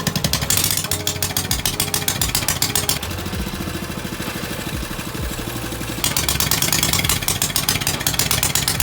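Small single-cylinder 196cc Honda-clone engine on a mini bike running through a short homemade stubby exhaust pipe. It runs at higher revs, drops to a softer, lower idle about three seconds in, and picks up again about six seconds in.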